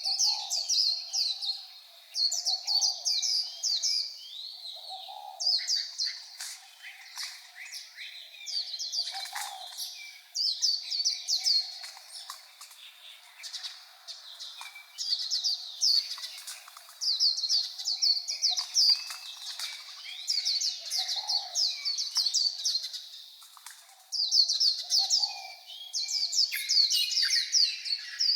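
White-eye (vành khuyên) singing: rapid, high-pitched warbling phrases a second or two long, repeated again and again with short pauses between them.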